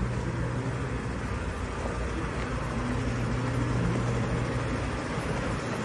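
Steady low hum of a running vehicle engine over a continuous wash of road noise.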